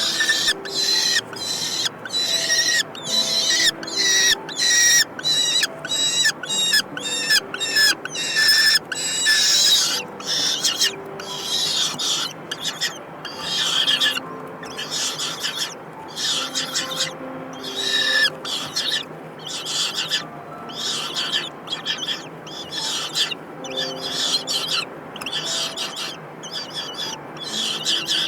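Kestrels calling at the nest: a rapid run of shrill, high-pitched calls, about two a second, loudest in the first half, then harsher and more crowded together.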